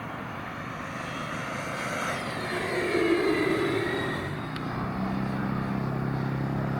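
Twin 90mm electric ducted fans of a radio-controlled jet whining past: the sound swells to its loudest about three seconds in, its pitch drops as it goes by, and it fades away. A steady low hum comes in about five seconds in.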